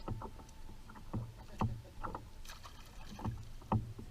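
Water slapping and knocking against a kayak's hull in irregular small splashes and thuds.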